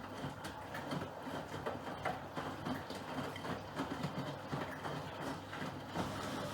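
Miele Professional PW6065 Plus washing machine drum turning, with wet laundry tumbling and dropping in irregular thuds and clatter. A steady hum joins about six seconds in.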